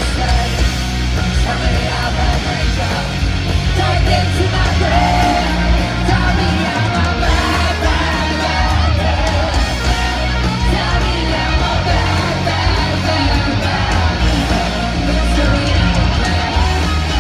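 Rock band playing live, loud, with singing over it and the crowd yelling along.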